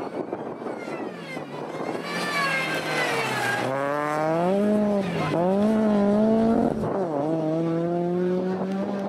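Mazda MX-5's four-cylinder engine revving hard as the race car accelerates up the hill. The pitch climbs, drops sharply three times, and climbs again each time, with the car loudest about two-thirds of the way through.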